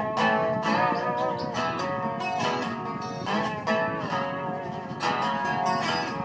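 Dobro (resonator slide guitar) picking a slow melody, plucked notes ringing on with a wavering vibrato in their pitch.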